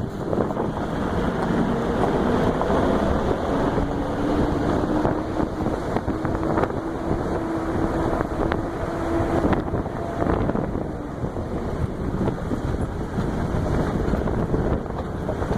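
Wind buffeting the microphone, a steady loud rush.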